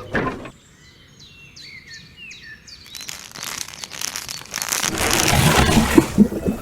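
Birds chirping in short, separate calls, then a noisy rush that builds over the last few seconds and grows loud near the end.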